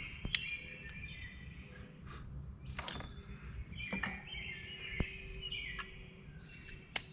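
Evening outdoor ambience: a steady high insect trill, likely crickets, with birds singing short chirping phrases on and off. A few sharp clicks stand out, the loudest just after the start.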